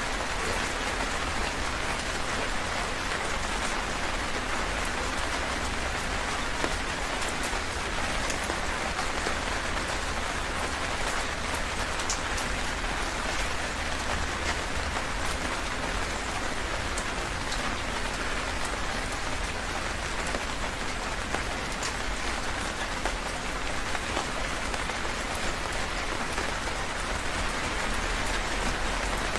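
Heavy rain falling steadily, a dense even hiss with scattered sharper drop taps and a low rumble underneath.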